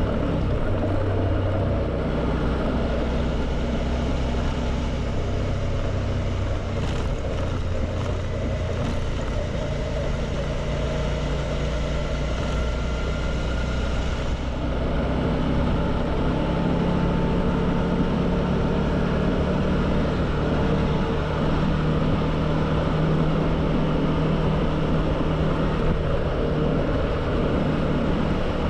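Suzuki V-Strom 650's V-twin engine running while riding, with steady road and wind noise; the engine note changes about halfway through.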